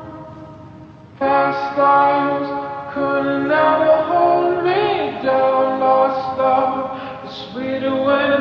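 A song with a sung melody: held, wavering vocal notes over music, coming in about a second in after a brief dip.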